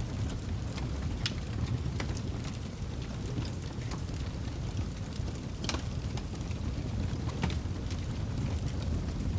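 Wood campfire burning: irregular sharp crackles and pops, several a second, over a steady low rumble of the flames.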